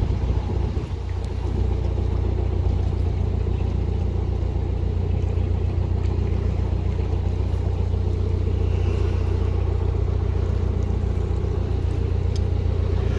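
Narrowboat's diesel engine running steadily under way, a low even drone.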